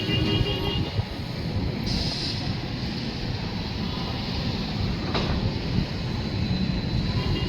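Train running with a steady low rumble. A brief horn tone sounds at the start, a short high hiss comes about two seconds in, and a single knock comes about five seconds in.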